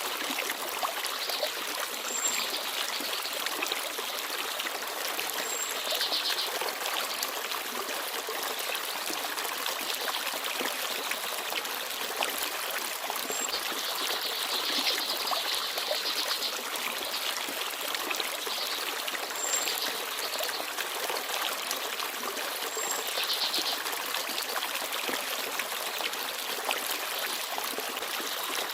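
Shallow forest stream babbling and trickling steadily. A small bird gives a brief high call every few seconds.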